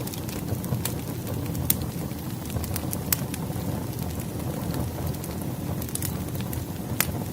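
Wood fire crackling: scattered sharp pops and snaps of burning firewood over a steady low rumble.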